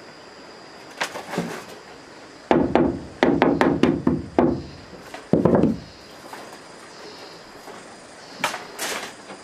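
Irregular knocks and thuds: a single knock, then a quick run of heavy strikes a couple of seconds in, another thud a second later, and two sharp knocks near the end.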